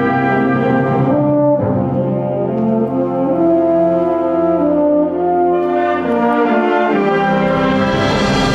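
School concert wind band playing sustained, brass-led chords that change every second or two, swelling to a bright, full climax near the end.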